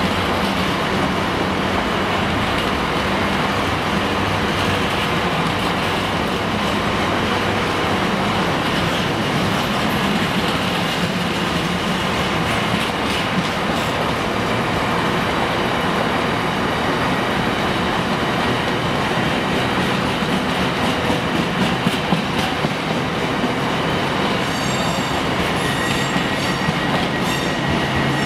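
Freight train of container flat wagons, mostly empty, rolling steadily past: a continuous rumble of steel wheels on rail with clicks over rail joints and a thin wheel squeal.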